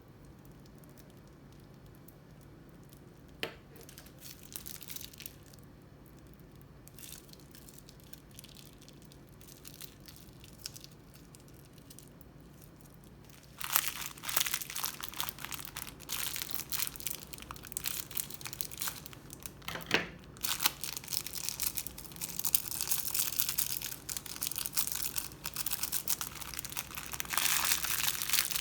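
Close-up crackling and crinkling as crunchy slime materials are handled. The first half is quieter, with a single click a few seconds in. About halfway through the sound turns into a dense, continuous crackle that keeps going.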